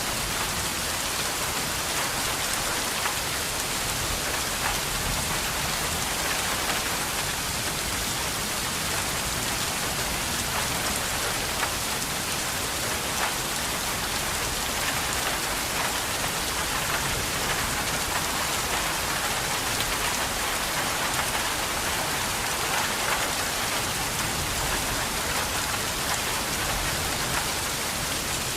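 Steady heavy rain falling and splashing on surfaces, a dense even hiss with scattered individual drop ticks.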